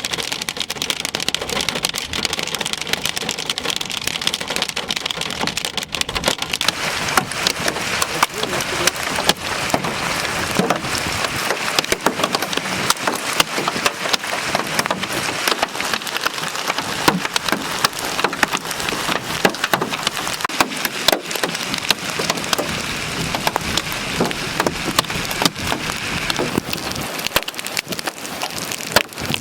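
Heavy rain pelting a storm-chase vehicle's roof and glass: a steady dense hiss thick with sharp individual hits.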